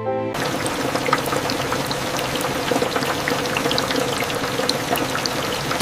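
Steady rain falling, an even hiss with many small scattered drips and ticks. A soft music note fades out just as it begins.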